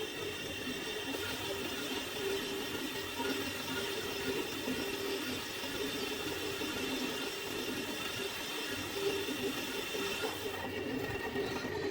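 Lathe running steadily, turning a car brake drum, with a steady hum and hiss.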